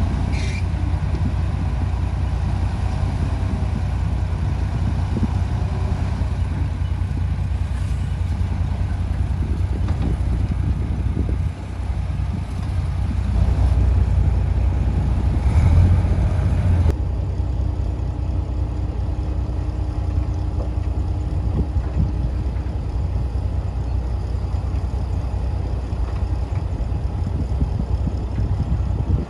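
Heavy earthmoving machine's diesel engine running in a steady low rumble, swelling louder for a few seconds about halfway through.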